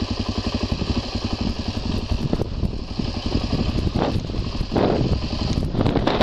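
Motorcycle engine running steadily during a ride, with a fast, even exhaust pulse.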